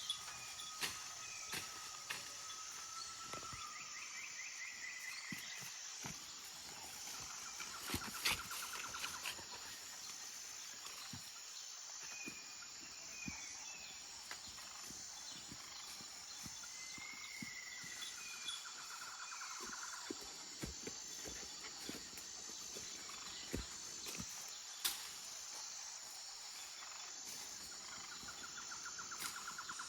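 Forest ambience: a steady, high insect drone with an even pulsing pattern. Over it come short chirping calls and several fast trills every few seconds, along with scattered sharp clicks and snaps.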